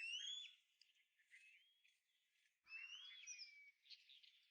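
Faint alarm calls of small wild birds warning of a circling bird of prey: short whistled notes sliding up and down, one bout at the start and another about three seconds in, with scattered chirps between.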